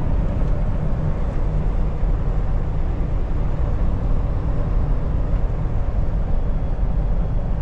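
Steady low drone of a Kenworth T680 semi truck running at road speed, its diesel engine and tyre noise heard from inside the cab.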